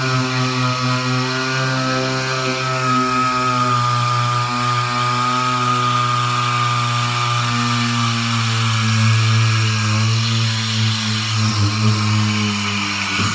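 A hand-held air tool, such as a pneumatic grinder or sander, runs steadily as it strips the car's steel quarter panel. It gives a loud buzzing drone over a hiss, and its pitch sags slightly as the tool works.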